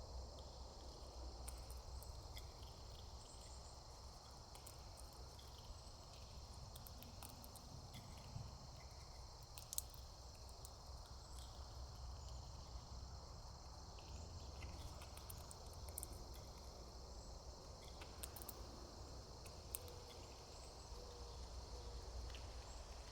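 Faint, steady insect chorus, a continuous high-pitched chirring, with a few scattered small clicks and a low rumble underneath.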